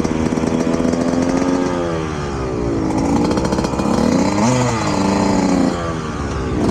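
Motocross bike engines revving, several at once, their pitch rising and falling as the throttles open and close.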